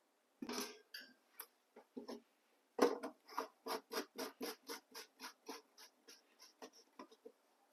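A few knocks, then an even run of sharp clicks, about three or four a second, growing fainter: screws and the metal cover of a diesel heater being worked loose by hand.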